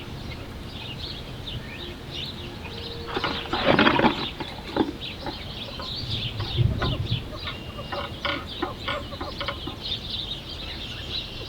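Small birds chirping over and over, with a louder rustling burst about four seconds in and a low thud near seven seconds.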